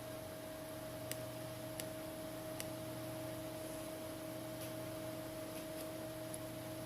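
Steady low electrical hum and hiss, with a few faint, light ticks scattered through.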